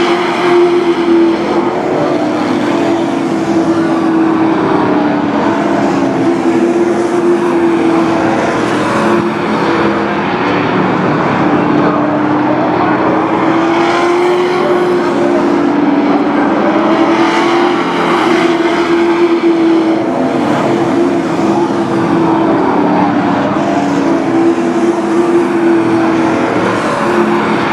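Several sport-class race trucks' engines running hard around a short oval track, their overlapping engine notes rising and falling steadily as the pack laps.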